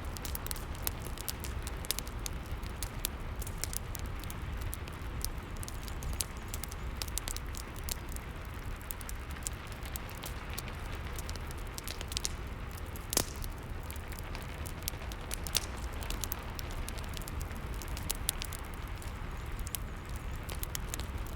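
Wood fire crackling in a fireplace, with irregular sharp pops and one louder pop about halfway through, over a steady low rumble of rain.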